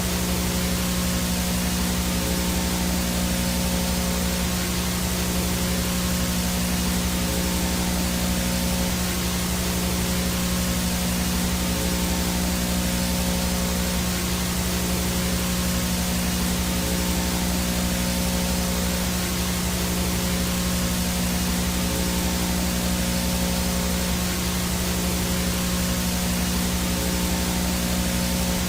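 VHS static noise: a steady hiss of analog no-signal interference with a low buzzing hum beneath it and a faint high whine.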